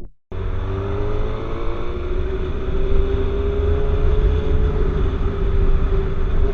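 Motorcycle engine running under way, its note rising a little over the first two seconds and then holding steady, over a heavy low rumble. The sound starts after a brief dropout at the very beginning.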